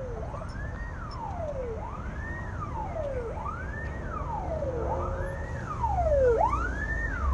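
A siren wailing in repeated cycles, each rising quickly and then falling slowly, about once every second and a half, over the low rumble of a vehicle on the road.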